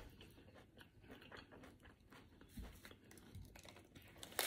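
Quiet close-up mouth sounds of someone chewing, then a crunch near the end as a McDonald's hash brown is bitten.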